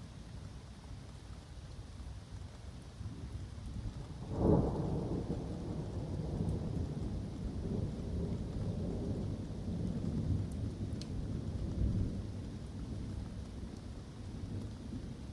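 Thunder in a summer thunderstorm: a sharp crack about four seconds in, then a long low rumble that rolls on and swells again near the end, over steady rain falling in woodland.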